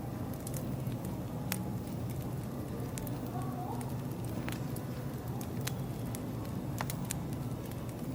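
Wood fire crackling, with sharp pops at irregular moments over a steady low hum.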